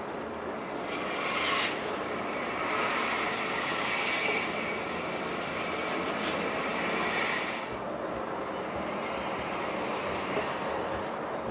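Steady running noise of a moving vehicle, with a louder high squeal or rubbing from about a second in until near three-quarters of the way through.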